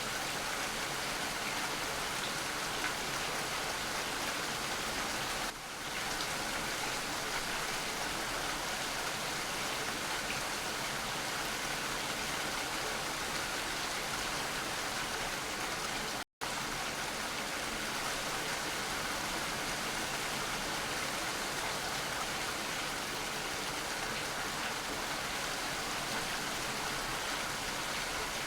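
Steady rain falling, an even hiss of drops without let-up. About sixteen seconds in it cuts out completely for a split second, then resumes unchanged.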